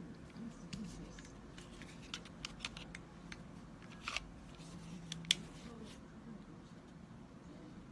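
Small sharp clicks and taps from small parts being handled, a dozen or so scattered over about five seconds, the loudest about five seconds in. Faint voices murmur underneath.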